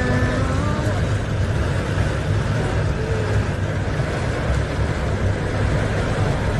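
Steady low rumble and hiss of vehicle traffic in heavy rain, unchanging throughout.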